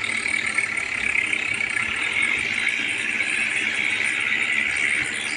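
Tractor running steadily with a rattle.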